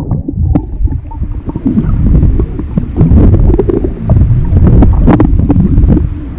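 Strong wind buffeting the microphone: a loud, irregular low rumble that gusts up and drops back.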